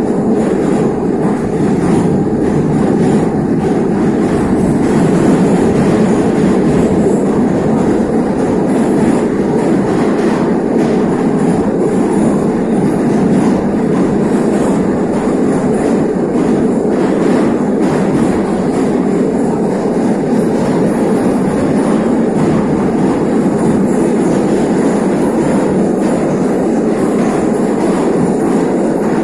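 NeVa metro train running steadily through the tunnel, heard from inside the car as a loud, even rumble.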